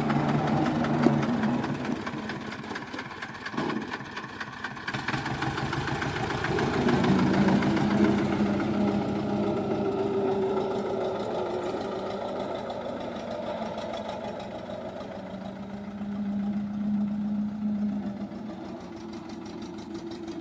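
HMT tractor's diesel engine running hard under load, held back by its applied wheel brakes; the engine note shifts in pitch a few seconds in and swells louder twice.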